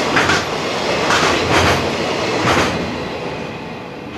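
Last container flatcars of a freight train rolling past, their wheels clacking over rail joints several times; about three seconds in the clacks stop and the rolling sound fades as the train draws away.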